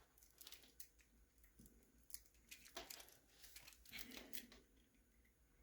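Faint scattered clicks and rustles of small plastic parts being handled on a 1/24-scale RC truck during hand assembly, a little busier in the middle.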